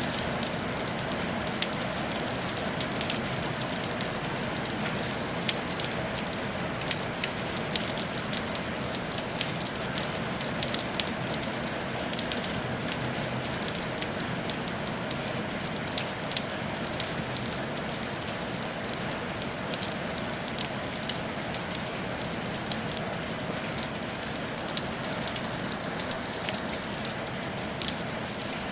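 Steady rain falling on a tiled roof, a dense constant patter with many sharp individual drop ticks.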